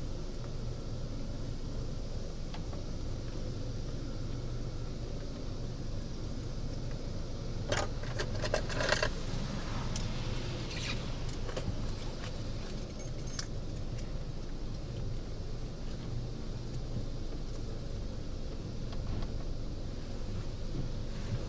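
Steady low hum of a car idling, heard from inside the cabin, with a brief cluster of jingling, clicking rattles about eight seconds in.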